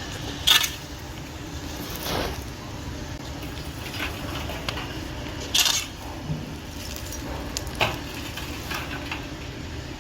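A series of sharp knocks or clacks, six in all, spaced one to two seconds apart, the loudest about half a second and five and a half seconds in, over a steady low rumble.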